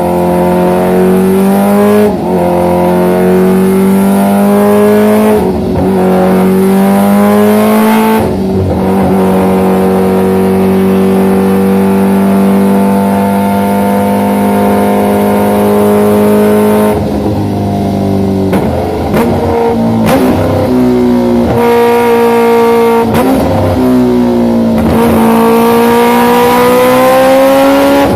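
Big motorcycle's exhaust at high engine speed, its pitch rising and falling, with several brief dips and a long steady stretch in the middle.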